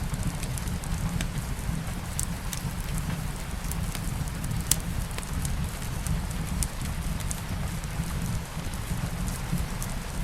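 Wood fire crackling with scattered sharp pops, one louder pop near the middle, over a steady low rumble and the soft hiss of light rain.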